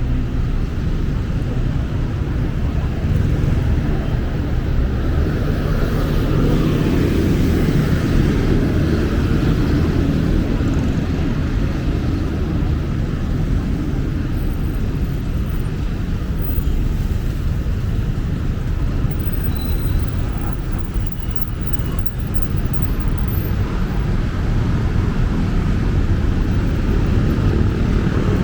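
Steady rumble of busy city road traffic, swelling for a few seconds near the start.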